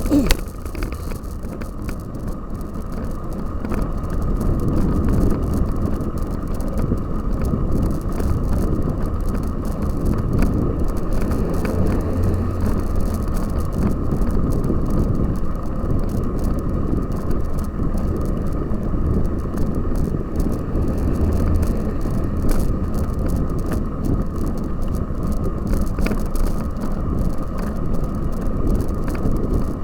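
A cyclocross bike being ridden, with steady wind rush on the microphone and the rumble and rattle of the tyres and frame.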